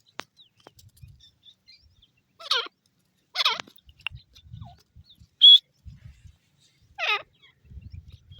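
Grey francolin calling: three short, harsh call notes, about two and a half seconds in, a second later, and again near the end. Between them a brief, high whistle is the loudest sound, with faint low knocks underneath.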